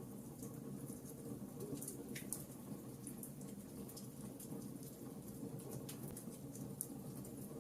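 Logs burning in a fireplace: a steady low rumble of flame under frequent small crackles and pops, with one slightly louder snap about two seconds in.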